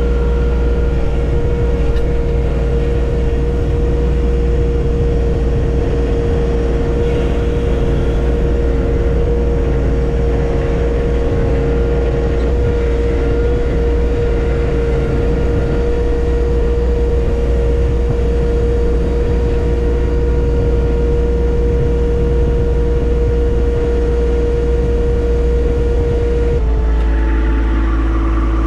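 John Deere 1025R compact tractor's three-cylinder diesel running steadily under work, with a strong steady whine over the engine note. Near the end the whine drops to a lower pitch and a hiss comes in.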